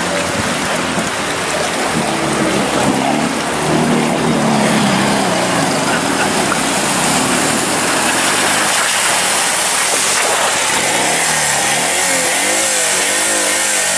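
Motorcycle engine running and revving as it rides through a river, its pitch rising and falling repeatedly near the end, over a steady rush of water noise.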